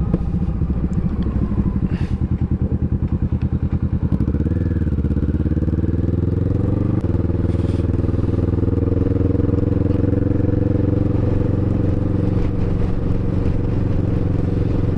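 Kawasaki Vulcan S parallel-twin motorcycle engine on the move. It thrums at low revs, picks up revs about four seconds in, changes gear about seven seconds in, then pulls on steadily.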